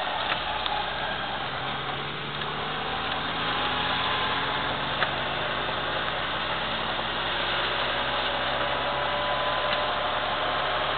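1998 Mini Cooper's A-series four-cylinder engine running, heard from inside the cabin, its note rising gradually as the car accelerates. Over it is a steady hiss of tyres on the wet track.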